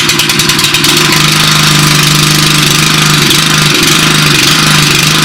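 Honda four-stroke petrol engine of a Westermann WR870 moss brush running steadily, freshly recoil-started.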